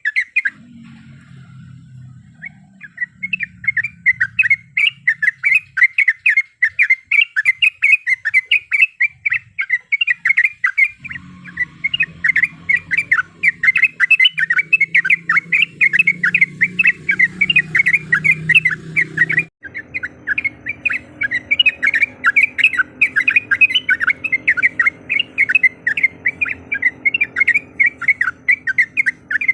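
Yellow-vented bulbul (trucuk) calling in a long, rapid chatter of short notes, several a second, after a short pause near the start.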